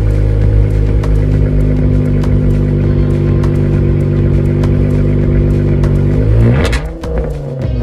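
Exhaust of a 2014 Chrysler 300's 3.6-litre Pentastar V6, straight-piped with the mufflers deleted, idling steadily. About six seconds in the throttle is blipped once: a quick rise in pitch that falls back within about a second.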